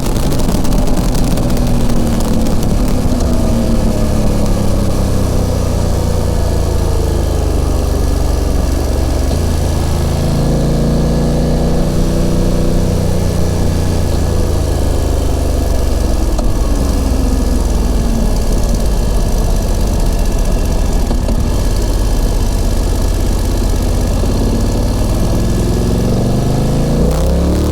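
BMW F900XR motorcycle's parallel-twin engine and exhaust while riding, with the wind against the bike. The revs fall steadily over the first ten seconds, pick up and ease off again, hold lower for a while, and rise again near the end.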